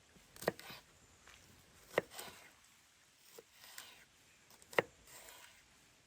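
Knife chopping food on a cutting board: three sharp knocks spaced a second and a half to three seconds apart, each followed by a brief scrape, with a fainter knock between the second and third.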